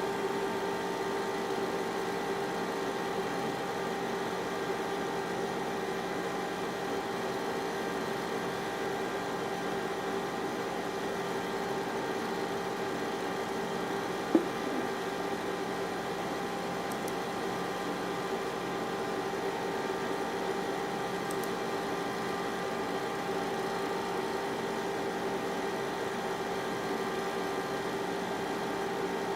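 Zeusminer Hurricane X2 ASIC miner running steadily: a constant whir with a steady whine in it. A single brief click about halfway through.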